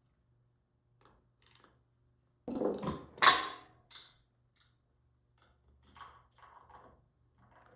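Metal tools and exhaust hardware clinking: a rattle about two and a half seconds in ends in one loud metallic clank, then a lighter clink, followed by scattered light clinks and rattles.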